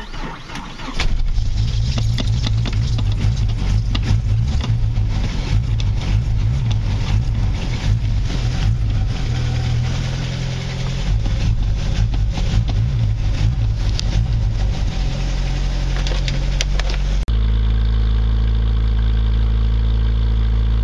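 Jeep YJ's 2.5-litre fuel-injected four-cylinder with a straight-pipe exhaust catching about a second in on a cold start after sitting two weeks, then running unevenly with some revving. Near the end the sound turns abruptly to a steadier, even run.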